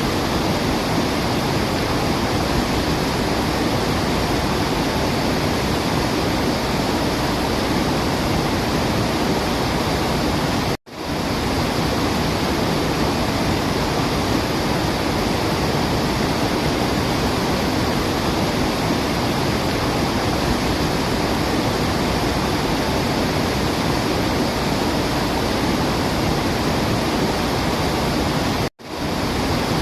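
Steady rushing of a waterfall, an even roar of water with no birdsong standing out. It cuts out abruptly twice, about eleven seconds in and again near the end, and fades back in each time, as at the seam of a looped recording.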